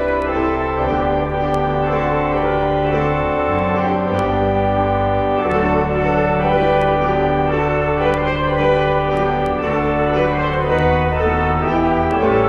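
Organ and trumpet playing an Easter hymn instrumentally, in held chords over a bass line that moves every second or two.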